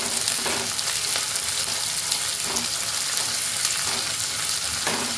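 Chopped onions, chillies and ginger sizzling steadily in hot coconut oil in a steel kadai, stirred with a spatula.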